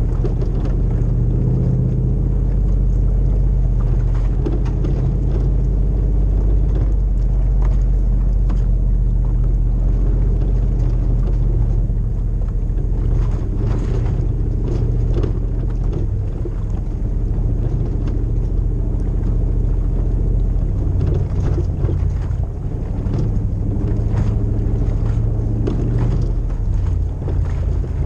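Toyota LandCruiser 100 Series' 2UZ-FE V8 on a full exhaust, driving with a steady low rumble; the engine note shifts about twenty seconds in. Scattered clicks and knocks come through around the middle.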